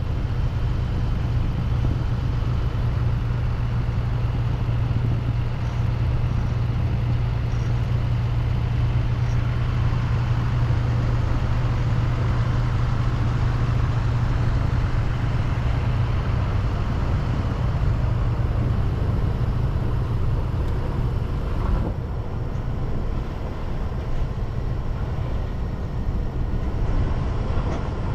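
Car driving along: steady tyre and road noise with a low rumble underneath, easing a little past the middle.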